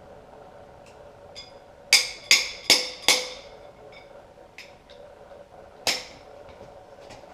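Sharp metal-on-metal taps and clinks from hand tools and parts while cam followers are worked out of a 3.7 L Atlas inline-five cylinder head. There are four quick ringing knocks about a third of a second apart, one more a few seconds later, and a few light ticks between them.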